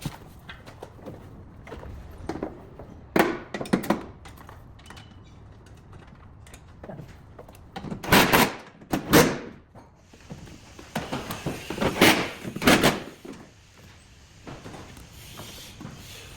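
A series of short, sudden thuds and knocks, coming roughly in pairs, in a room with some echo.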